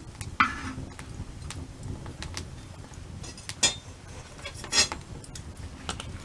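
Wood campfire crackling, with many small ticks over a low rumble and three louder sharp snaps: one about half a second in, and two more between about three and a half and five seconds.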